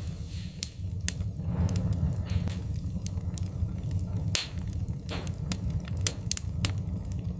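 Wood fire crackling in a fireplace: irregular sharp pops and snaps over a steady low rumble of the burning, with a short hiss now and then.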